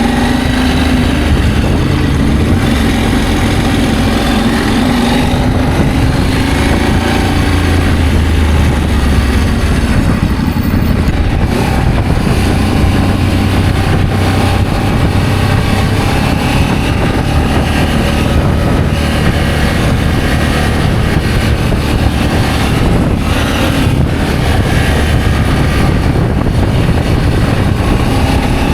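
Adventure motorcycle engine running steadily while under way, its pitch rising and falling a little.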